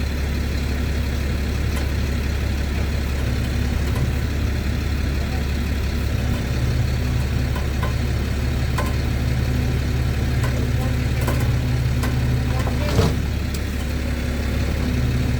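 Vehicle engine idling steadily, with a single sharp knock about thirteen seconds in.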